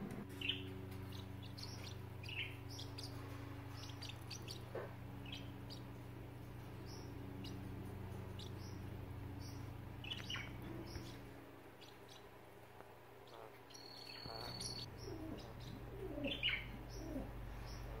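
Pet birds chirping faintly in short, scattered calls over a steady low hum.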